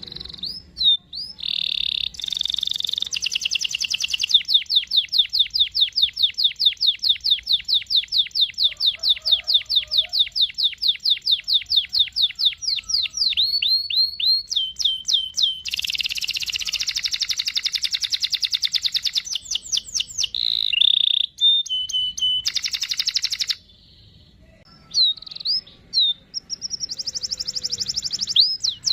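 Domestic canary singing: long rolling trills of rapidly repeated high notes, broken by short chirping phrases and brief pauses.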